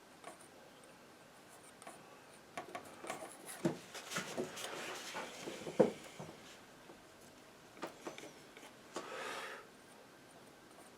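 Painting knife tapping and scraping paint onto the canvas: a scatter of light taps and short scrapes, the sharpest tap about six seconds in, and a short scrape about nine seconds in.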